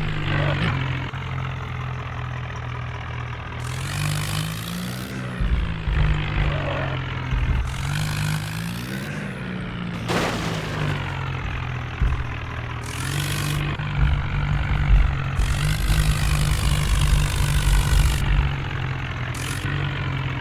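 Tractor diesel engine running, its pitch rising and falling a few times as it is revved.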